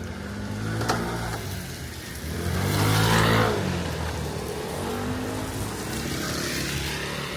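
A motor vehicle passes close by on the street, its engine note rising to its loudest about three seconds in and then fading; another vehicle is heard more faintly near the end.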